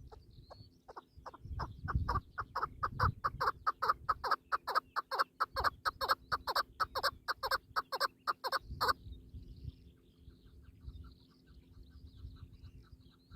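Partridge calling: a fast series of short clucking notes, about four to five a second, building in loudness and stopping abruptly about nine seconds in, then a fainter series of notes. Small birds chirp thinly in the background.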